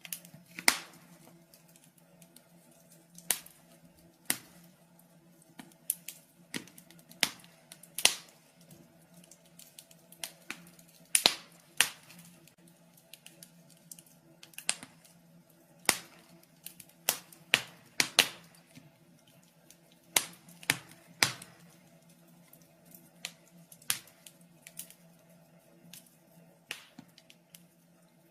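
Wood fire crackling in a fireplace: irregular sharp pops and snaps, some loud, over a faint steady low hum.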